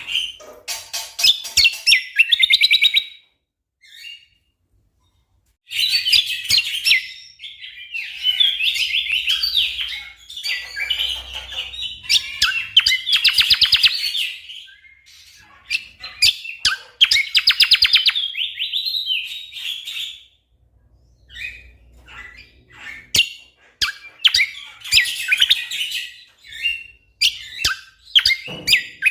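Cucak kombo (kecial kombok) songbird singing in fast, dense phrases of quick chirps and trills, in bursts of a second or more with short pauses between.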